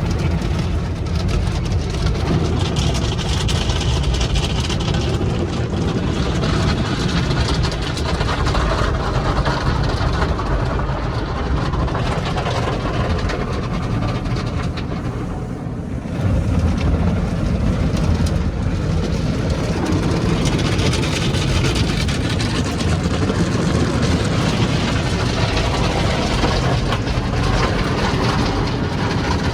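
An automatic tunnel car wash working over a car, heard from inside the cabin: rotating brushes and water spray make a loud, steady churning noise. It eases briefly about halfway through, then picks up again.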